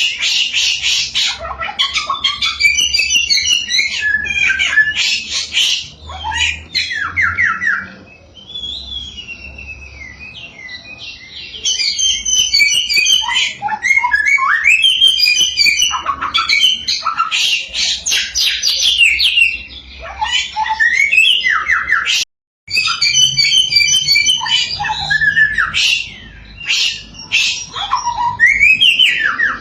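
A samyong songbird singing loudly and without pause: a fast, varied stream of chirps, rattling trills and sliding whistled notes, softer for a few seconds about a third of the way in. The song cuts out for a split second about two-thirds through.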